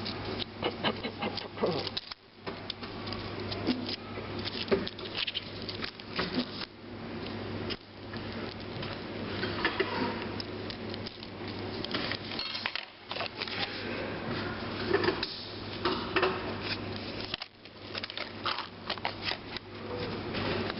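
Close, continuous rustling and crackling handling noise over a steady low hum.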